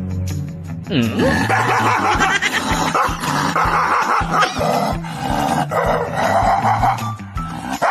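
A dog barking loudly and repeatedly, starting about a second in, over background music with a steady bass line.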